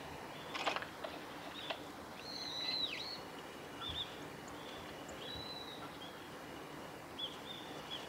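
Wild birds calling in woodland: thin, high whistled notes, with one longer slurred call about two to three seconds in and a few short ones after. A brief rustle sounds in the first couple of seconds.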